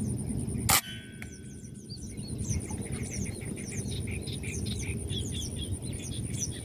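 A single sharp air-rifle shot about a second in, with a brief ringing after it. Many birds then chirp over a steady high insect trill.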